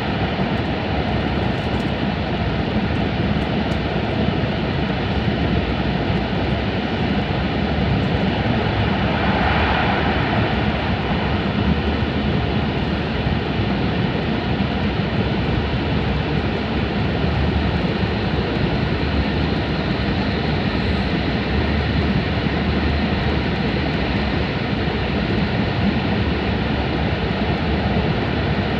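Steady running roar of an E5 series shinkansen at speed in a tunnel, heard inside the passenger car, with a brief swell in the hiss about ten seconds in.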